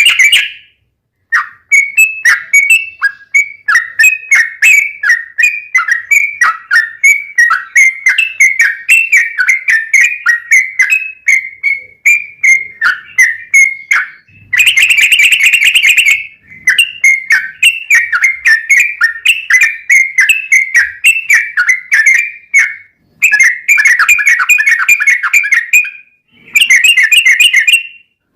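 Sooty-headed bulbul (trucuk) singing a fast, rapid-fire run of short chirping notes, broken by a few brief pauses.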